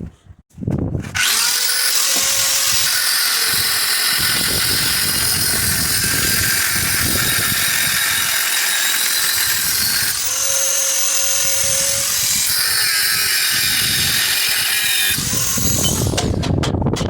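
A handheld power tool runs steadily for about fourteen seconds with a hissy, high-pitched sound, working on forklift parts. Near the end a rapid, rattling stream of clicks takes over.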